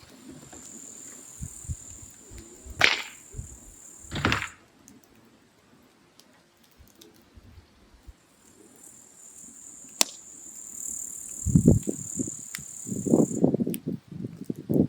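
Burning firewood crackling, with a few sharp pops and a denser low crackle near the end. A steady high insect chirring runs behind it for several seconds, stops, then starts again.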